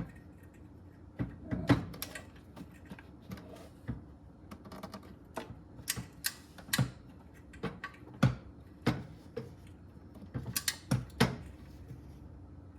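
Torque wrench ratcheting on exhaust nuts, a scattered run of sharp clicks and small metal clacks at uneven spacing, with a tight cluster of clicks near the end.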